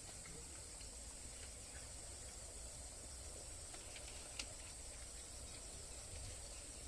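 Steady high-pitched chorus of insects in the forest, under a faint low rumble, with a single sharp click about four seconds in.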